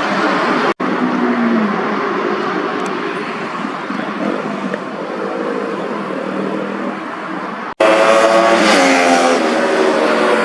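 Sport-bike engines revving and passing by, heard as spliced clips with two abrupt cuts: one about a second in and one near the end. After the second cut a louder bike revs hard as its pitch falls.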